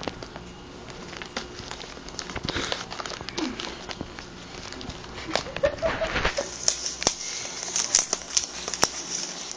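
Wrapping paper crinkling and tearing as a dog works at a wrapped present, with scattered clicks and scrapes, busier and brighter in the second half.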